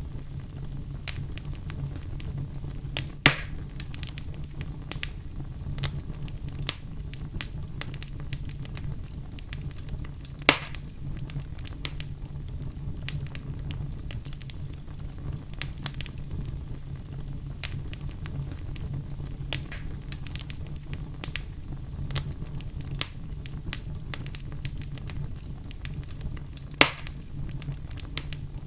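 Wood campfire crackling, with frequent small snaps and three louder sharp pops spread through, over a steady low rumble.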